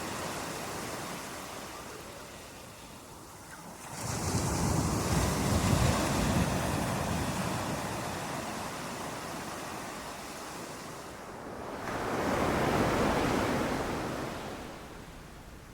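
Ocean waves breaking on a beach: one wave crashes about four seconds in and washes out slowly, and a second breaks near twelve seconds and ebbs away near the end.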